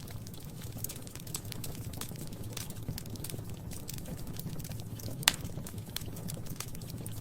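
Fire in a fireplace crackling, with irregular small pops and one louder pop about five seconds in, over a steady low rumble.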